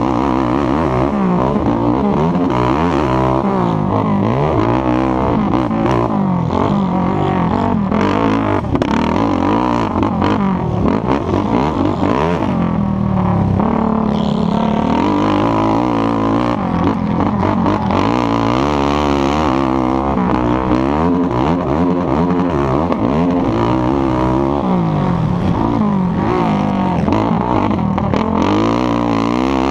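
ATV engine racing hard, revving up and down over and over as the throttle is worked through the course.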